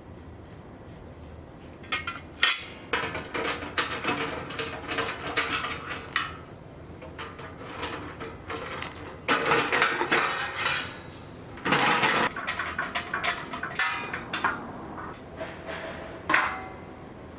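Metal objects clattering and clinking as they are handled, in irregular runs of sharp clinks and scrapes from about two seconds in until near the end.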